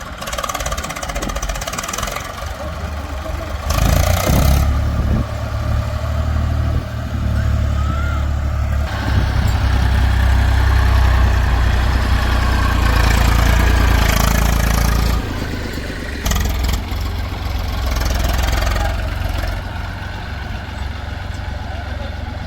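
Heavy diesel machine's engine running steadily with a deep hum. It gets louder about four seconds in and again about nine seconds in, then drops back about fifteen seconds in.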